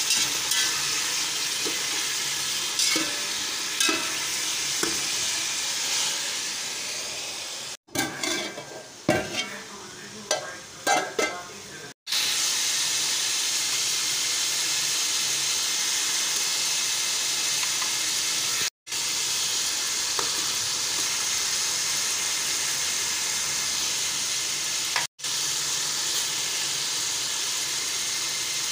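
Chicken, onions and potatoes sizzling as they fry in oil in a metal pot, with a spatula stirring and scraping against the pot. The sizzle cuts off sharply a few times, and for a few seconds about a third of the way in it drops lower, with scattered scrapes and clinks.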